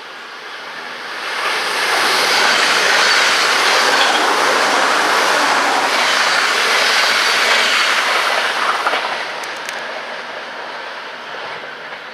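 Passenger train passing at speed: the rush of wheels on rail swells over about a second, holds loud for some seven seconds, then fades away.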